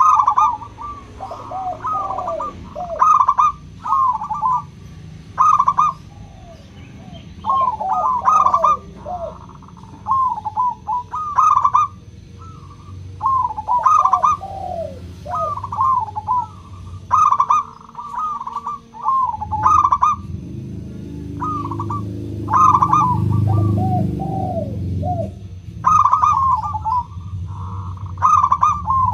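Zebra dove (perkutut) cooing: repeated phrases of short, clear, bubbling notes, each phrase dropping from higher notes to lower ones, a new phrase every couple of seconds. A low background rumble runs beneath and grows heavier about two-thirds of the way through.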